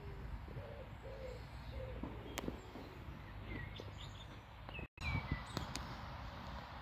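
Birds chirping and calling over a steady low outdoor rumble: short high chirps throughout, and a few short lower calls in the first half. The sound cuts out for a moment about five seconds in.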